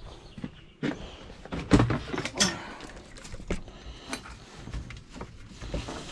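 Irregular knocks, clunks and clatter of tools and gear being handled, with a latch or door-like thunk among them.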